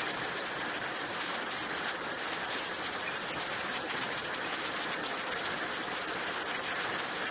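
A steady, even hiss with no clear rhythm or tone.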